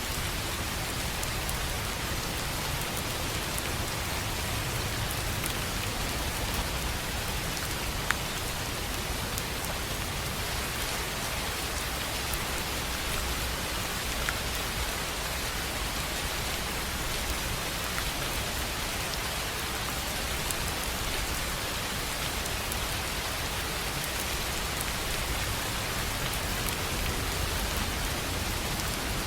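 Steady rain pattering on a tin roof, with a few sharper single drop ticks, one around eight seconds in and another around fourteen seconds.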